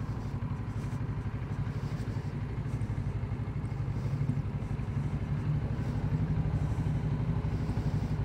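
Kawasaki Z650RS's parallel-twin engine running at low revs, a fast, even low pulsing, while the motorcycle rolls slowly.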